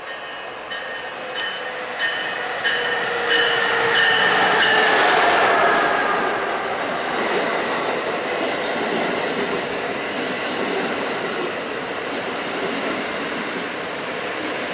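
Amtrak Acela Express high-speed trainset passing along the platform. A whine with regular clicks grows louder as the power car nears, drops in pitch as it goes by about five seconds in, then gives way to the steady rush of the passenger cars.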